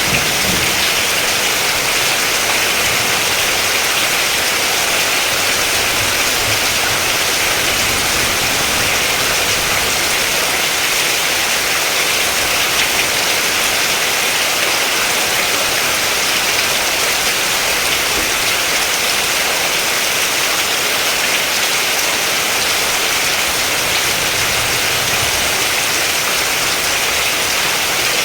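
Steady rain falling, an even hiss with no breaks or swells.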